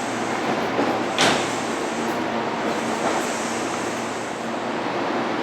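Electric train noise at a station platform, a steady rumble and hiss, with one sharp clunk a little over a second in.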